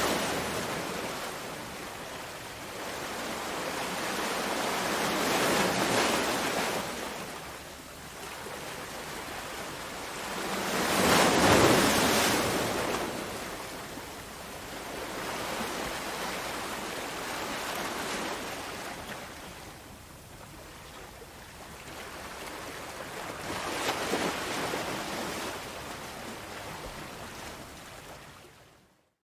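Sea waves breaking and washing back, the rush of surf swelling and fading every few seconds, with the loudest wave about eleven seconds in. The sound drops out to silence for a moment near the end.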